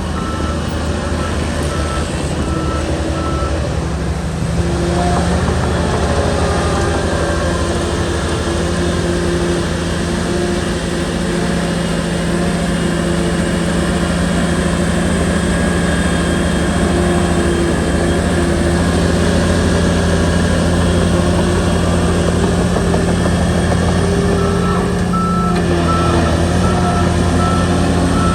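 Shantui bulldozer's diesel engine running steadily, its pitch shifting slightly a few seconds in, with a reversing alarm beeping about twice a second at the start and again near the end.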